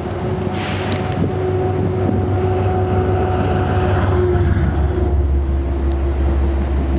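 Amtrak train led by a GE Genesis P32AC-DM locomotive running past, with a steady whine over a deep drone. The drone grows stronger and louder about four seconds in.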